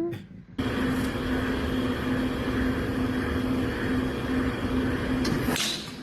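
Steady, loud machine noise like a running vehicle or aircraft engine, with a droning hum that pulses. It starts suddenly about half a second in and cuts off abruptly near the end.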